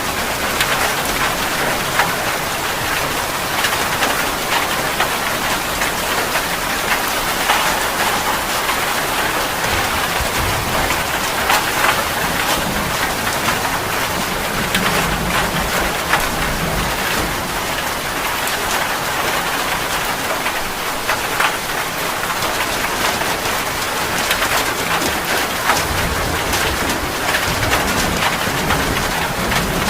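Heavy rain falling steadily, a dense even hiss with many individual drops striking close by.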